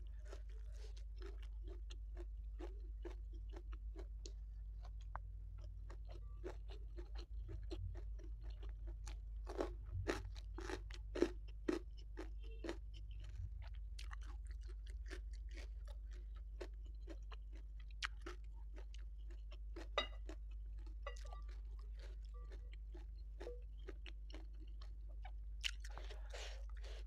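Close-up chewing with crunching of a mouthful of rice, salted fish and raw vegetables eaten by hand; the crunches come thickest and loudest about ten to thirteen seconds in. A low steady hum runs underneath.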